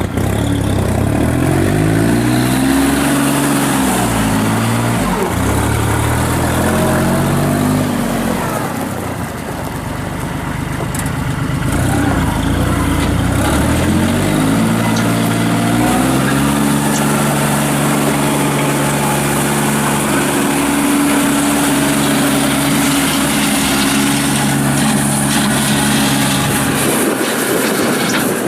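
Kubota L39 tractor's four-cylinder diesel engine running, speeding up and falling back several times. It then climbs and holds at a higher steady speed for about ten seconds before dropping off near the end.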